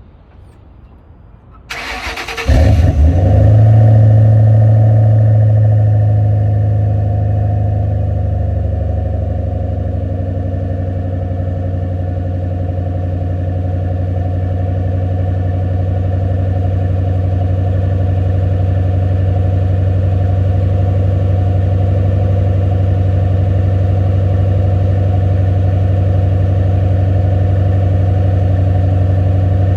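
2006 Roush Mustang engine cold-started: the starter cranks briefly about two seconds in, the engine catches and flares loudly, then settles into a steady fast cold idle that eases down a little over the next several seconds.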